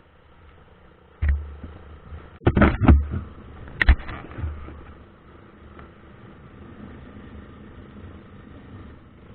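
Vehicle driving on a road, with a steady low rumble broken by a few loud, sudden thumps between about one and four seconds in.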